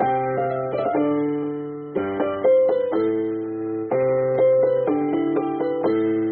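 Keyboard music: electric-piano-like chords held and changing about once a second.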